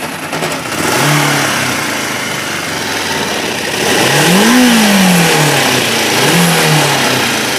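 Kawasaki Ninja 500's parallel-twin engine running just after starting and being revved: short blips about one second in and near the end, and one bigger rev rising and falling about four to five seconds in.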